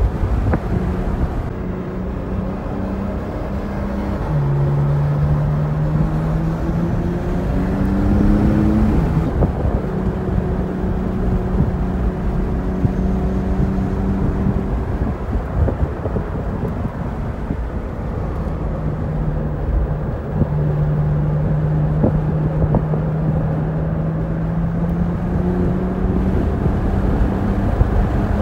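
Porsche 911 Targa 4S's twin-turbo flat-six heard from inside the cabin under track driving, its pitch climbing and dropping back several times with throttle and gear changes, over steady road and wind noise.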